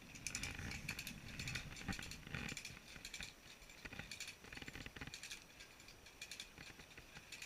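Faint, irregular clicking and rattling, with a low rumble in the first couple of seconds.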